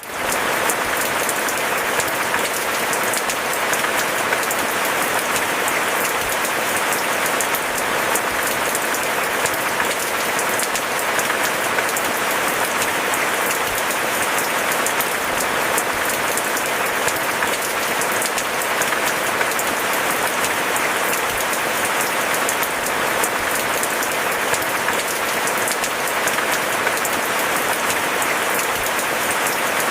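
Steady rain falling: an even, unbroken hiss made of many fine drop hits, with no rise or fall in strength.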